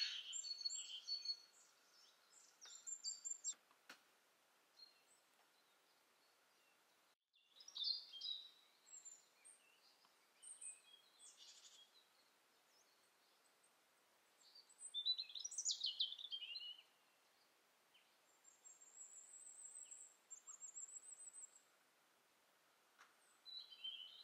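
Faint birdsong: small birds chirping in short, scattered phrases with pauses between them. Later there is a run of quick, high, thin notes.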